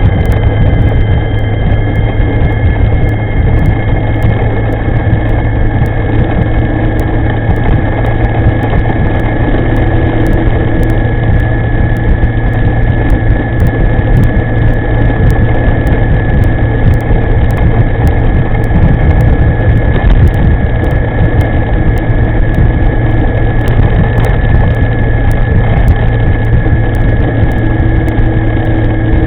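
Wind buffeting the microphone of a camera on a moving electric scooter, a loud, steady rumble, with a few faint, steady high tones over it.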